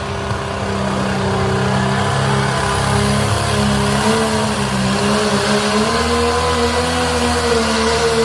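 Diesel pulling truck's engine running hard at sustained high revs, its pitch wavering slightly and creeping a little higher a few seconds in.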